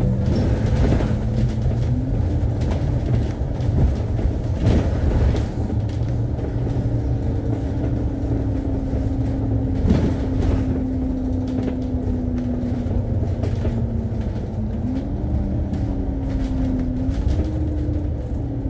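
Interior of an Alexander Dennis Enviro500 MMC double-decker bus under way, with a steady low rumble and an engine note that steps up at gear changes a few times and drops near the end. There are occasional short rattles and knocks from the body.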